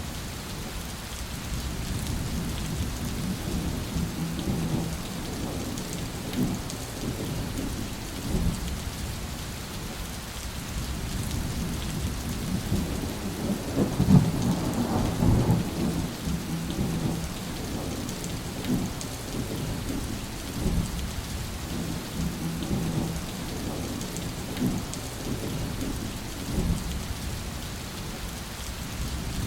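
Steady rain with low rolling thunder throughout, the thunder swelling loudest about halfway through.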